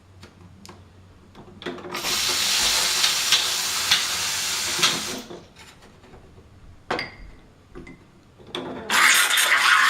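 Saeco MonteCarlo Automatica espresso machine's steam wand hissing in two loud bursts, one of about three seconds and another starting near the end, with a few clicks and knocks before and between them.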